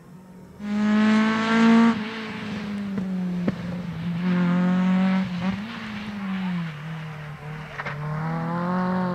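Rally car engine revving hard under power, its note climbing and then falling back several times as the driver lifts or changes gear, with a couple of sharp cracks.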